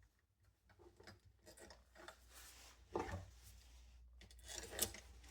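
Faint handling noises of box fan parts being fitted by hand: rubbing and small clicks, with a louder knock about three seconds in and another near the end.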